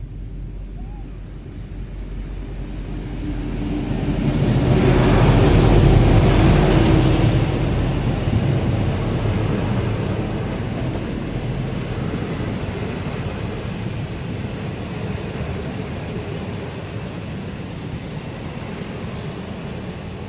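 A train running on the track: a rumbling rush of wheel and wind noise that swells to its loudest about six seconds in, then settles into a steady run.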